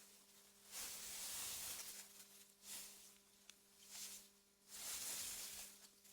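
Wind gusting through meadow grass: soft, rustling hiss that swells and fades in waves, with the strongest gusts about a second in and again about five seconds in. A faint steady low hum runs underneath.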